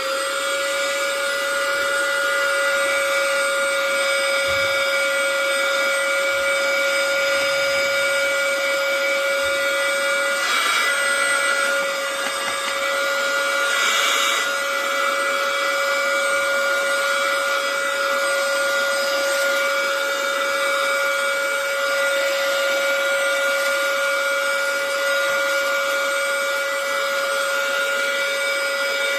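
Bissell AeroSlim cordless handheld vacuum running steadily, a constant high motor whine over the rush of air, with a brief change in the airflow noise about halfway through.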